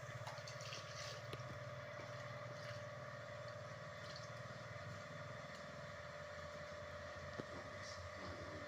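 A steady low mechanical hum with a thin steady whine above it and a few faint ticks.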